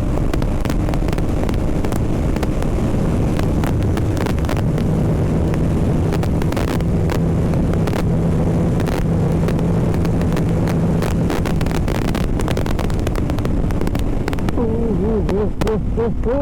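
BMW G 310 RR's single-cylinder engine running on the move, with heavy wind noise on the helmet-mounted mic. The engine note drops about three seconds in and holds lower for several seconds. A short wavering tone comes in near the end.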